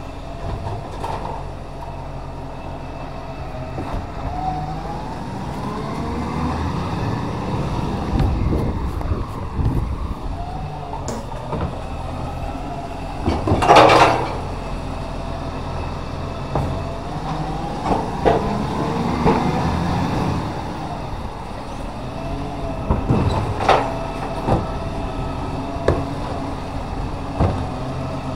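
Recycling truck running, its engine speed rising and falling twice as the hydraulics work, with a loud clatter about halfway through and a few smaller knocks.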